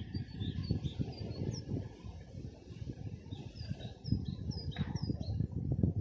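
Small songbirds chirping: a run of short high notes in the first second and a half, then a series of higher, down-slurred notes in the second half. Under them is an uneven low rumbling noise.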